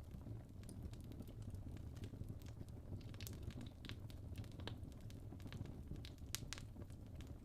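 Wood fire burning in a fireplace: a soft steady low rumble of flames with scattered sharp crackles and pops from the logs, a few louder pops about three seconds in and again about six seconds in.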